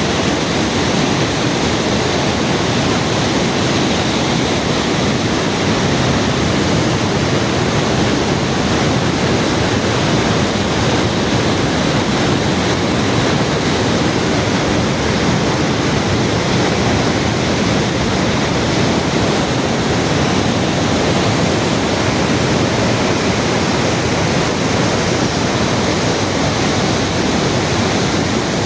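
Loud, steady rushing water, an unbroken wash of noise with no breaks or changes.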